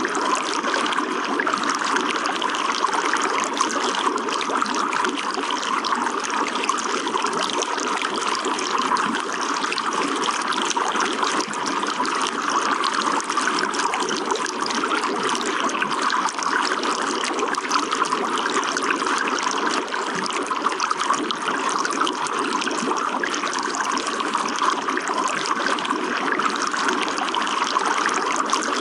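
Running water flowing steadily and evenly, with no pauses or distinct splashes.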